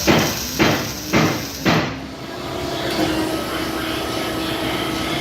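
1970 Pontiac GTO Judge V8 through a header-back custom dual exhaust, blipped four times in quick succession about half a second apart, then settling into a steady idle.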